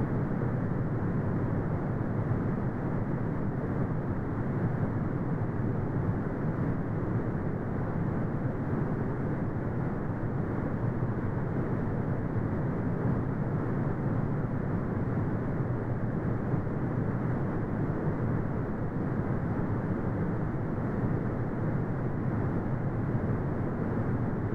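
Steady brown noise: a deep, even rumbling hiss with most of its weight in the low end and little above the mid range, unchanging throughout.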